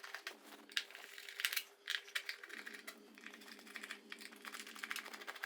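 Scattered light clicks and taps of a hand tool working on the screws of a motorcycle's air box cover, with plastic parts knocking as it is undone.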